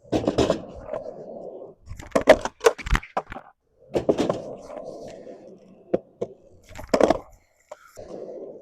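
Skateboard wheels rolling on concrete, broken by sharp wooden clacks of the board popping, flipping and slapping down: skateboarder attempts at a fakie big spin. The densest run of clacks comes about two to three seconds in, with another hard hit about seven seconds in.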